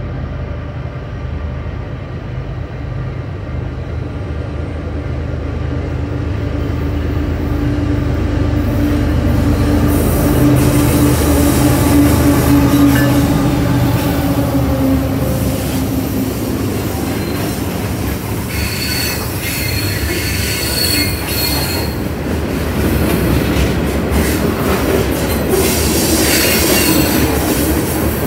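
Union Pacific mixed freight train passing: the diesel locomotives' engine drone builds up and drops in pitch as the locomotives go by, then freight cars roll past with steel wheels squealing on the rail and clattering over the joints.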